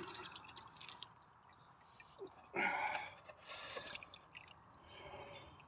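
Petrol used to wash sludge out of an engine sump being tipped out, splashing and dripping, with the loudest splash of liquid about two and a half seconds in.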